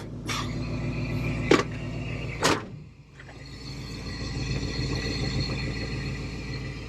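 1996 Ford F250 engine idling in the cab, with two sharp clunks about a second and a half and two and a half seconds in; the owner suspects a large vacuum leak at the brake booster. The sound dips briefly around three seconds in, then the engine sound carries on steadily.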